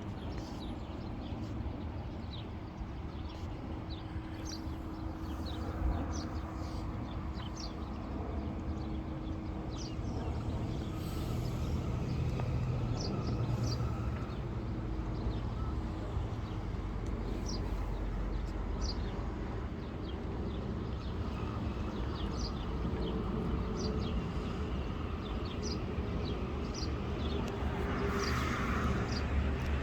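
Small birds chirping again and again in short high notes, over a steady low rumble.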